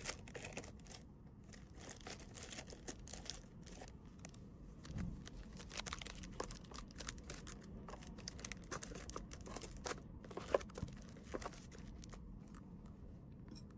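Plastic packaging crinkling and rustling as small wrapped items are handled, with many light, irregular clicks.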